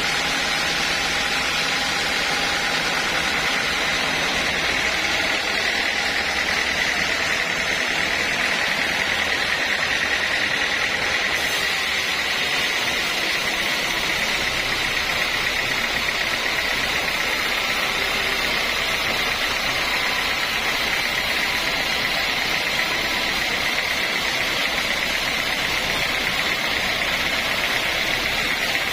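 Sawmill machinery running steadily: a continuous mechanical noise with a steady high whine.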